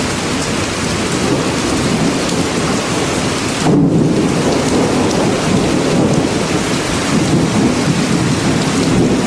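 Steady heavy rain, with a deep continuous rumble underneath. The hiss briefly dulls about four seconds in.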